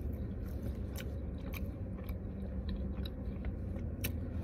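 A person chewing a mouthful of sandwich with the mouth closed: scattered soft clicks and smacks over a steady low hum.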